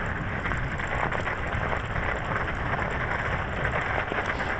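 Steady rush of wind buffeting a head-worn microphone, with low rumbling tyre and frame noise from an electric bicycle riding off-road.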